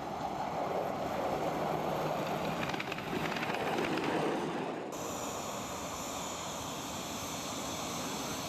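A miniature railway train running, its noise growing to a peak about four seconds in. It cuts off abruptly into a steady outdoor background wash.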